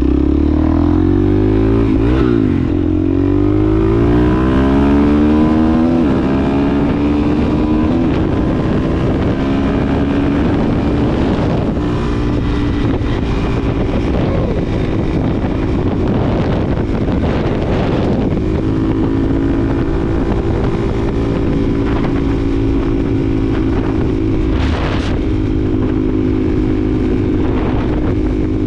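2020 Suzuki DRZ400SM's single-cylinder four-stroke engine running through a Yoshimura exhaust on the move. The revs rise and fall through the gears over the first two-thirds, then hold steady while cruising.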